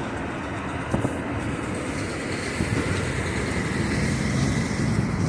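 Steady rumble of passing vehicles, with a faint steady high tone above it.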